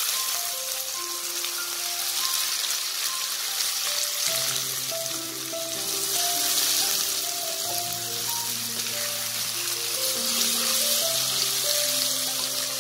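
Cuttlefish rings with sliced onion, green chili and tomato sizzling as they are stir-fried in hot oil in a wok and turned with a spatula. Background music plays over it, and a bass line comes in about four seconds in.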